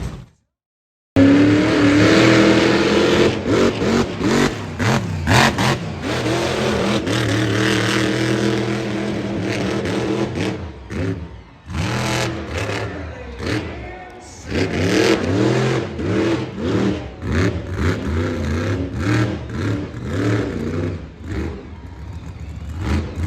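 Monster truck engine revving hard, its pitch climbing and falling again and again, with sharp pops and cracks mixed in. The sound drops out completely for under a second near the start.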